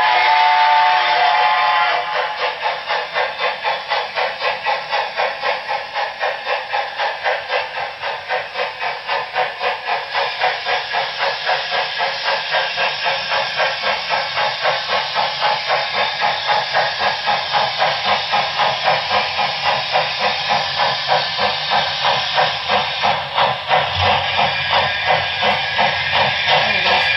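Sound system of an HO-scale Broadway Limited Paragon 4 Southern Pacific GS-4 steam locomotive model: a brief steam-whistle sound at the start, then steady, even exhaust chuffs with hiss as the locomotive runs.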